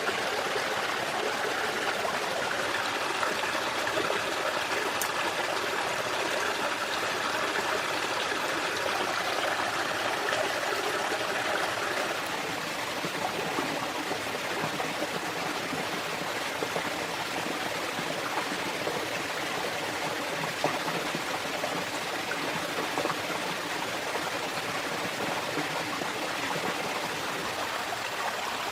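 Stream water flowing steadily over rocks, dropping slightly in level about twelve seconds in.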